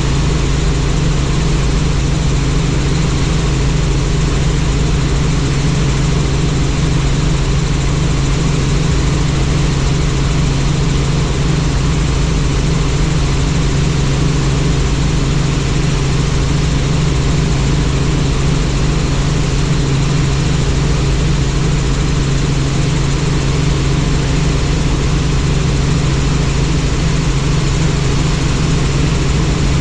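Helicopter in flight: the steady, unchanging drone of its engine and rotor.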